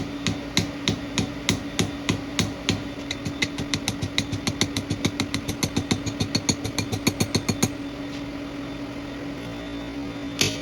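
Power hammer striking the end of a tube as it is tapered, about three blows a second at first, quickening to about five or six a second, then stopping while the machine's motor keeps humming. A single sharp knock near the end.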